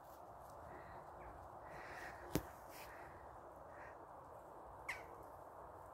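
Faint outdoor ambience with distant bird calls, broken by one sharp click about two and a half seconds in and a short falling squeak near the end.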